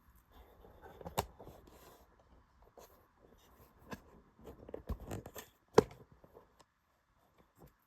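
Handling noises: light rustling with a scatter of sharp clicks and knocks, the loudest knock a little under six seconds in.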